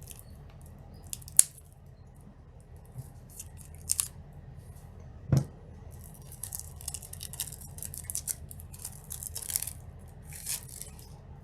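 Stack of trading cards being handled: a few sharp clicks and taps, then from about halfway through, quick rustling and sliding of cards against each other.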